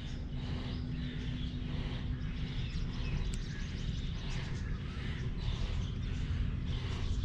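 Outdoor background noise, a steady low rumble with a faint hum, with small birds chirping on and off.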